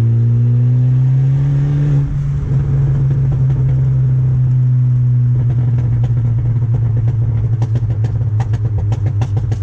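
Turbocharged car engine heard from the cabin, pulling hard with a shift about two seconds in. It then comes off the throttle, and the exhaust pops and crackles on the overrun in a fast run of sharp cracks.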